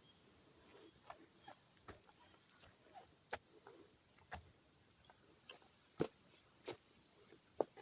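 Footsteps on a dry forest floor, with irregular crackling snaps of leaves and twigs about once a second. A faint insect chirps in short high pulses throughout.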